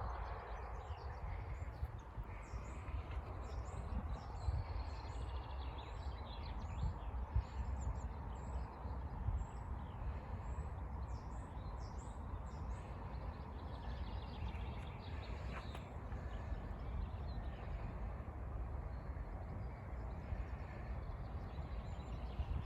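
Small songbirds chirping and calling, with many short, high, falling notes mostly in the first half, over a steady outdoor background hiss and low rumble.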